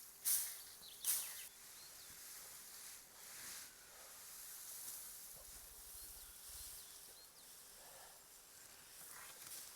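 Dry hay rustling as it is handled: two loud swishes about a second apart near the start, then fainter rustling.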